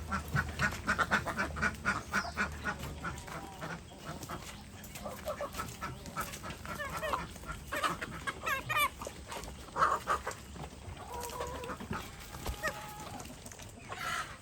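A flock of native (desi) chickens clucking and calling while they feed on scattered grain. There are quick clicks in the first few seconds, and the loudest call comes about ten seconds in.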